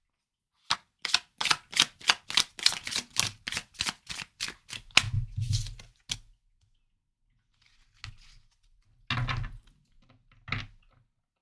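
Tarot cards being shuffled by hand: a quick run of sharp card slaps, about three or four a second, that stops about six seconds in, then a few softer handling sounds.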